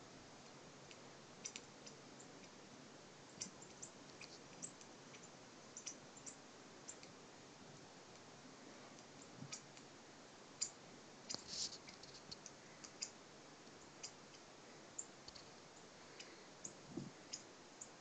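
Small birds giving short, high chips and calls, faint and scattered irregularly, from a bird-feeder video playing on the computer.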